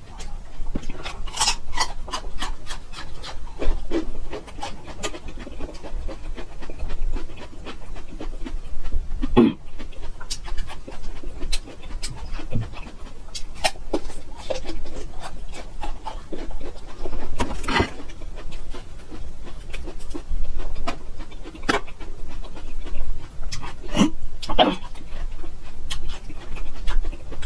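Raw ginger root being bitten and chewed close to the microphone: many crisp crunches and mouth sounds, with a few louder bites every several seconds.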